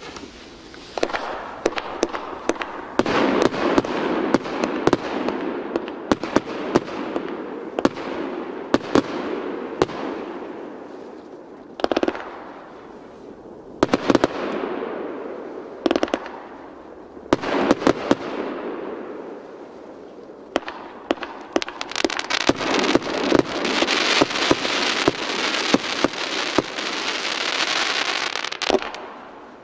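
A 100-shot consumer fireworks battery firing: a rapid series of launch thumps and aerial bursts with crackling effects, in waves that build and die away. A dense barrage near the end builds toward the finale.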